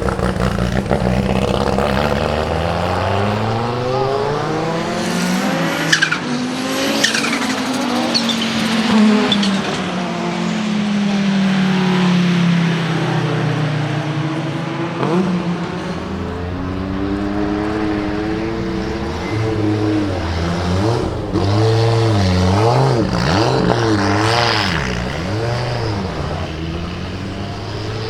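1989 Audi 90 IMSA GTO's turbocharged 2.2-litre five-cylinder engine running hard, its note sliding down in pitch over several seconds, with a few sharp cracks early on. Near the end the revs rise and fall repeatedly in quick succession.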